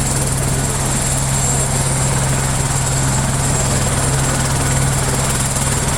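Helicopter running loud and steady: a constant low rotor pulse with a high turbine whine above it, with no change in pitch or level.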